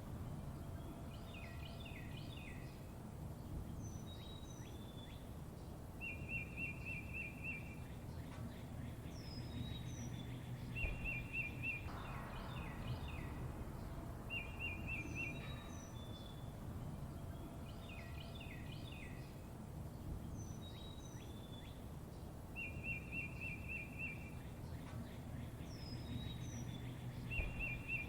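Wild songbirds calling over a low steady outdoor rumble: a rapid buzzy trill lasting about a second and a half comes back every few seconds, between quick high down-slurred chirps.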